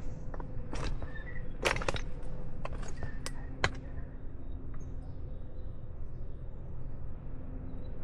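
Footsteps crunching on a trail: several irregular crisp steps in the first half, then fewer, over a steady low outdoor background.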